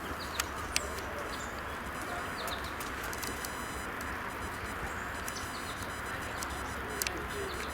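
Small birds calling with many short, high chirps over a steady outdoor hiss, with a few sharp clicks near the start and again near the end.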